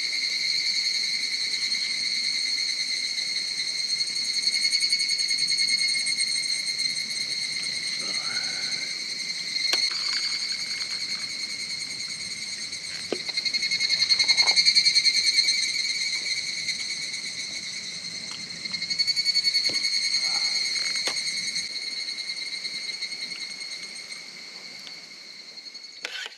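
Insects chirring without a break in a steady, finely pulsing high trill that swells and fades a little twice, with a few faint clicks.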